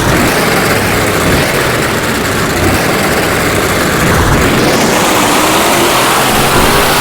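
Monster truck engine running loud, a heavy, even rush of noise whose pitch creeps up slightly near the end.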